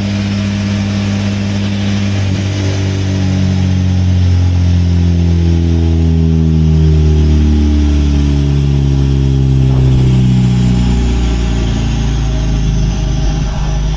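Car engine running hard on a chassis dynamometer, its pitch changing in steps.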